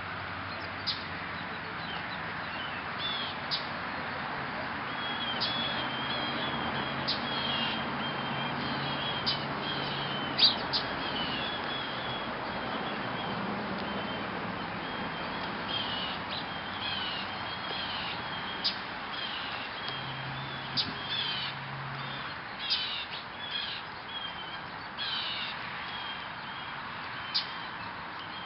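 Small birds at a seed feeder chirping: many short, high chirps, with a few brief sharp clicks in between, over a steady background hiss.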